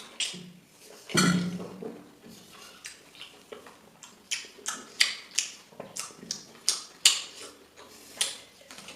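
A person eating noisily, chewing with a run of sharp wet smacks and crunches. There is one louder, longer sound about a second in.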